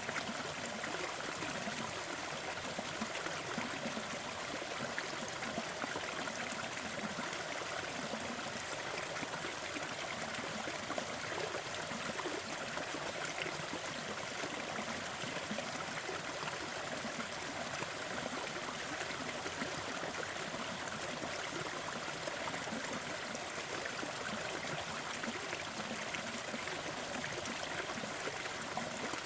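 Waterfall: a steady rush of falling and splashing water, even throughout, with the sound sitting mostly in the middle and upper range rather than a deep rumble.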